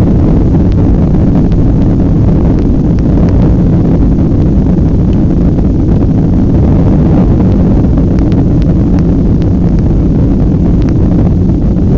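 Jet airliner's engines at high takeoff power: a loud, steady, deep rumble that holds even throughout.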